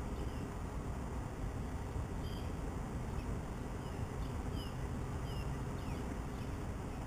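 Small birds chirping: short, quick high calls scattered about once a second, over a steady low rumble.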